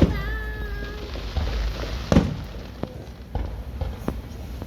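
Aerial fireworks bursting: a loud bang at the start and another about two seconds in, each with a short rumble after it, then a few smaller pops.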